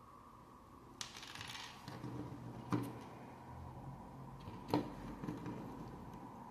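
Plastic Lego pieces being handled: a short rustle about a second in, then two sharp clicks of bricks knocking or snapping together, about two seconds apart.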